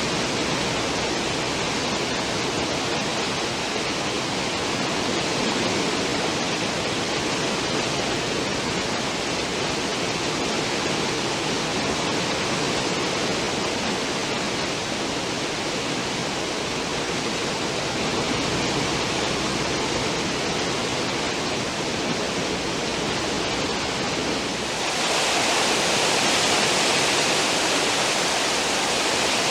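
Churning water of a cruise ship's stern wake: a steady, even rushing of foam and spray. About 25 s in it cuts abruptly to a louder, hissier rush.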